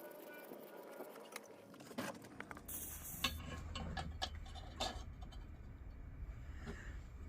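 Faint, scattered clicks and taps of small lantern parts being handled on a workbench, with a brief hiss about three seconds in.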